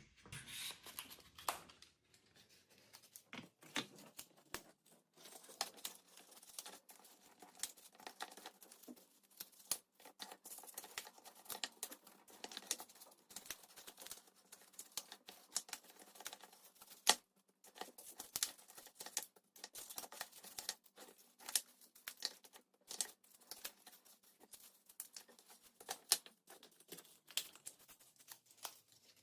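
Cardboard tinder nests stiffened with candle wax and packed with wood shavings being cut and broken apart into portions by hand: a faint, irregular run of snips, cracks and crinkling rustles, with small bits falling off.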